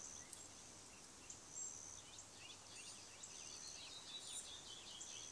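Faint outdoor background of small birds chirping, with short high calls and quick downward-sliding chirps scattered throughout over a low hiss.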